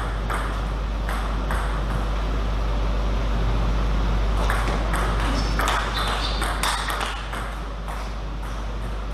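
Table tennis ball clicking again and again off rackets and the table during play, at an uneven pace that quickens in the second half, over a steady low hum.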